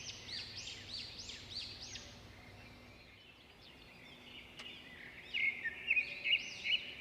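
A songbird calling in quick series of short arched chirps, several a second. It fades for a moment midway, then a burst of sharper chirps comes near the end.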